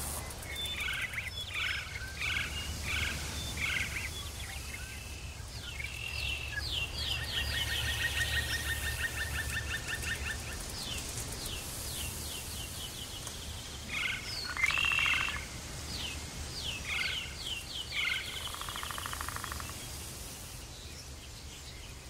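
Wild birds calling: groups of short, sharp chirps repeated throughout, and a rapid trill of evenly spaced notes about a third of the way in, over a low steady hum.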